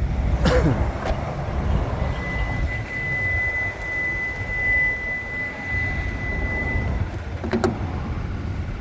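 Kia Stinger GT2's 3.3-litre twin-turbo V6 idling with a steady low rumble, with a clunk shortly after the start and another near the end, and a thin steady high tone for about five seconds in the middle.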